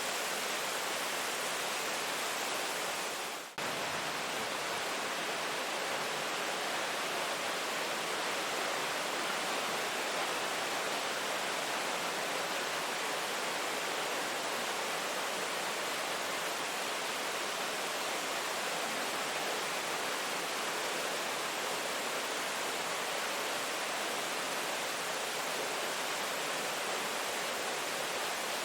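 Steady hiss of heavy rainfall, with one short drop in level about three and a half seconds in.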